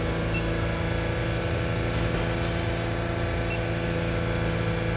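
Toyota Highlander engine held at a steady 3,000 RPM for a knock-sensor check, running with an even hum. A few faint high clinks come about two seconds in.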